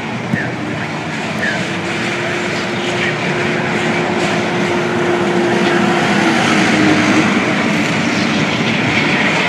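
Tank cars of a Canadian Pacific crude oil train rolling past, a steady rumble and rattle of wheels on rail. A steady hum comes in about two seconds in, holds for about four seconds, then steps down slightly in pitch and fades.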